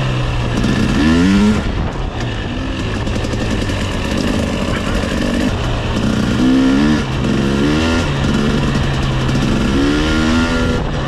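Two-stroke dirt bike engine running, revving up and easing off several times.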